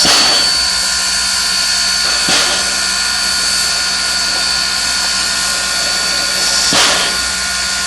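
Steam locomotive hissing steadily with a steady high tone, broken by a few separate puffs of exhaust or steam: one at the start, one about two and a half seconds in and one near the end.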